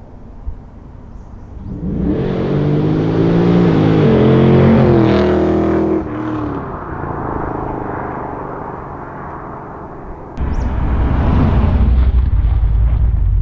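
Holden Caprice's 6.2 L LS3 V8, with a custom-grind cam and a full Pacemaker twin 3-inch exhaust, accelerating past under gently eased-in throttle. The engine note climbs from about two seconds in, then drops in pitch and fades as the car goes by. Near the end a sudden loud, low rumble takes over.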